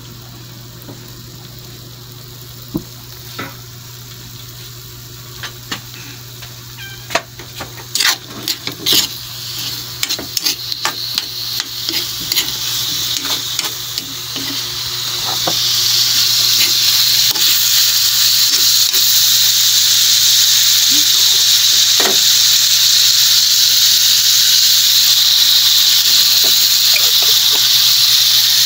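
Pork pieces, onion and garlic sautéing in oil in a wok. A spatula clacks and scrapes against the pan through the first half, then a loud, steady sizzle takes over from about halfway on.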